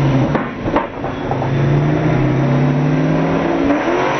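Twin-turbo Camaro SS V8 under hard acceleration. A gear change comes about half a second in, then the revs climb steadily again.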